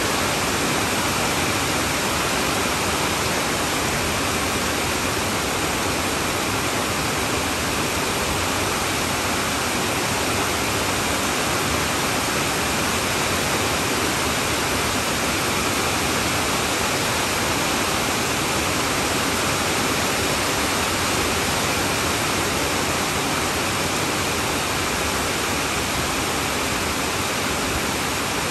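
Heavy rain falling on a tin roof: a steady, even wash of noise that does not let up.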